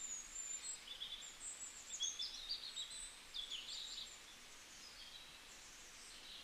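Faint birds chirping and twittering in short high calls, busiest in the first four seconds and thinning out after, over a low background hiss.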